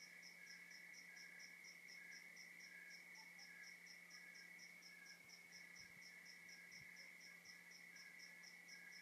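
Faint night chorus of crickets and other insects: a steady high trill, a quick regular chirp about five times a second above it, and a slower pulsing call, over a steady low hum.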